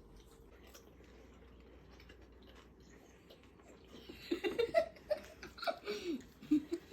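Quiet room sound with faint clicks, then from about four seconds in a child giggling and making short vocal sounds in spurts.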